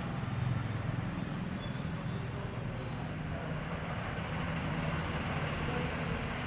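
A vehicle engine running steadily with a low hum, over an even wash of noise.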